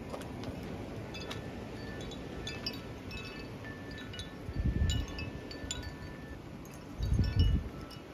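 Scattered light, high metallic tinkling like chimes, over a steady wind, with two gusts buffeting the microphone, one about halfway and one near the end.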